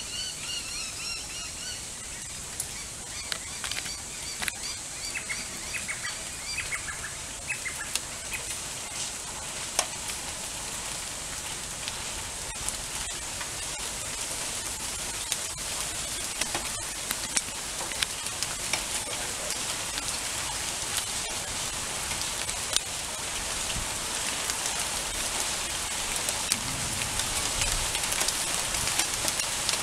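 Rain setting in: a steady hiss full of sharp drop ticks that slowly grows louder. The sound is a little rough, with water on the microphone. Birds call for the first several seconds.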